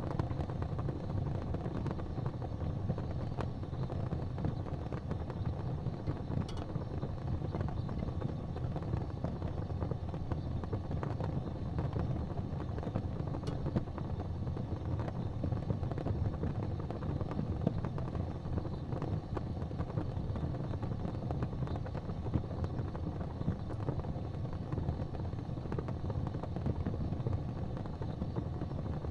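Wood fire burning in a fireplace: a steady low rumble of the flames with a few faint crackles.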